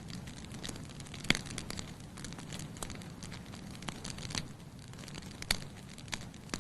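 Wood fire burning in a fireplace: a steady low rumble of flame with irregular sharp crackles and pops, the loudest about a second in and again about five and a half seconds in.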